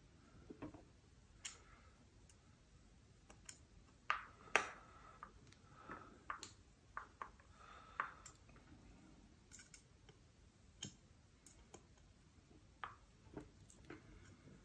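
Faint, scattered clicks and light taps of a small screwdriver and plastic parts as grub screws are set flush in the control knobs on a metal detector's control box.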